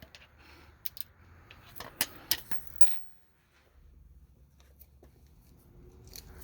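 Metal hand tools clinking and clicking against each other and the suspension parts: a handful of sharp clicks in the first three seconds, then quieter.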